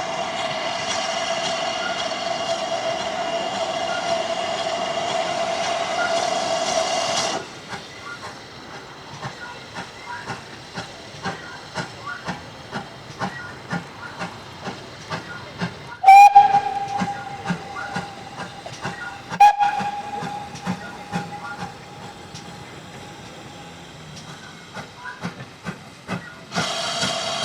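Steam locomotive whistle held on one steady note, cut off abruptly about seven seconds in. A steam train then works past with regular beats, about one and a half a second. A sudden whistle blast comes about halfway, sounds again a few seconds later and trails off. Near the end the opening steady whistle sound returns.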